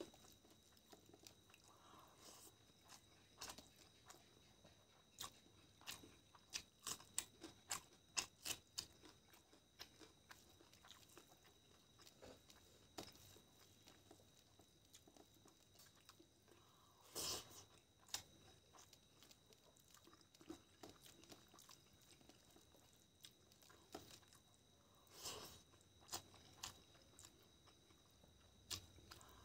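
Faint, close-miked sounds of eating by hand: scattered wet mouth clicks and smacks of chewing, with fingers mixing rice and chicken curry on a steel plate.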